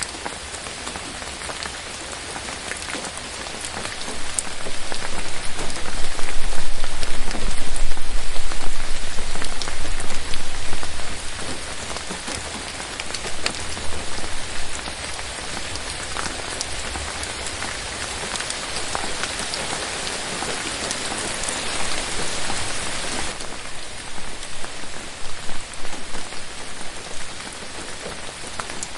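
Steady rain falling on forest leaves, with scattered single drops standing out. It swells louder for several seconds from about four seconds in, with a deep rumble under it, then settles back to a steady patter.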